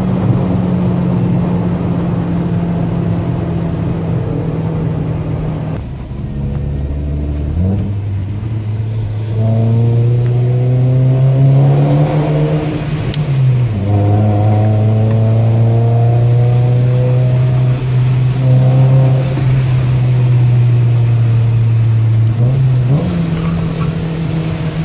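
Volkswagen Polo 1.6 four-cylinder engine, chip-tuned with an aftermarket exhaust and air filter, heard from inside the cabin while the car is driven hard. It runs steadily, eases off about six seconds in, then pulls with rising pitch. The pitch drops at a gear change about halfway through, the engine pulls steadily again, and it revs back up near the end.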